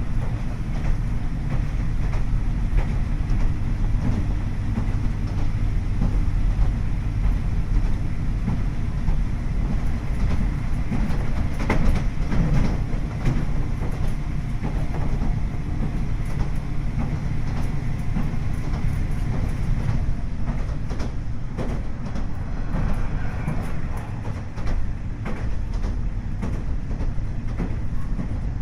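Running sound of a KiHa 40-series diesel railcar, KiHa 40-524, powered by a DMF15HSA six-cylinder diesel engine: a steady low engine drone with wheel and rail noise and scattered clicks of rail joints. The drone eases somewhat about two thirds of the way in.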